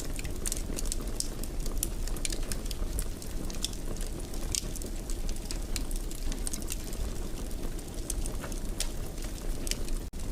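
Wood fire burning in a fireplace: a steady low rumble with irregular sharp crackles and pops, and a momentary dropout near the end.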